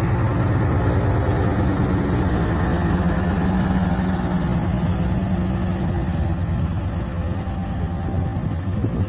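Diesel locomotive engine running steadily with a deep, even hum.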